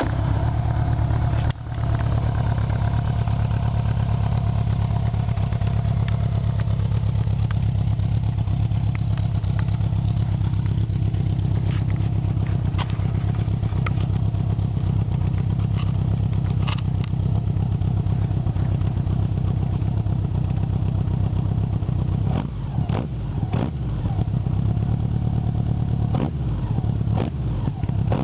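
1976 Honda GL1000 Gold Wing's flat-four engine starting up and running through a homemade 4-into-1 exhaust with a Marshall muffler. It catches right at the start and stumbles briefly about a second and a half in. It then runs steadily, with a few short dips in level near the end.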